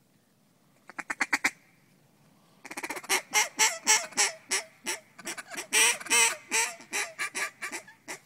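Mallard duck call blown loud and close: a quick burst of about six quacks, then after a short pause a long run of loud quacks that starts as a fast chatter and slows into spaced, drawn-out quacks.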